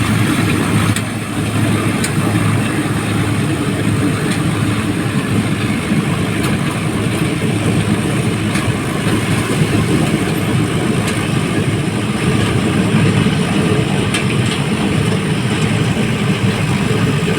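Tractor engine running steadily while driving a thresher that chops crop stalks into bhusa straw: a low, even engine hum under the continuous noise of the machine, with a few faint ticks.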